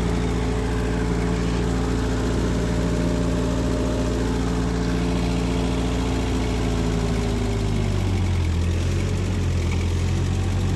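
Ford 8N tractor's four-cylinder flathead engine running steadily in first gear, with the plow raised. About three-quarters of the way through, the engine speed drops and it settles into a lower, deeper note.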